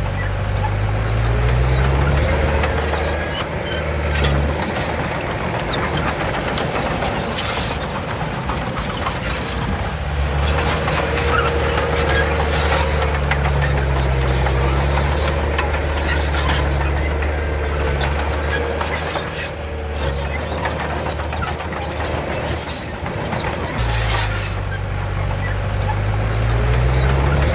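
Komatsu D31 crawler bulldozer's diesel engine working under load, its pitch rising and falling as the throttle changes, with scattered metallic clatter from the tracked machine.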